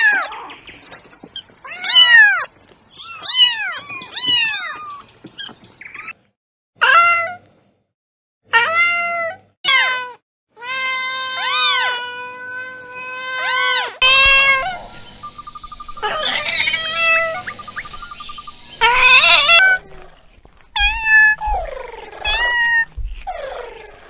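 Kittens meowing over and over: many short, high meows that rise and fall in pitch, in groups broken by a few abrupt silent gaps.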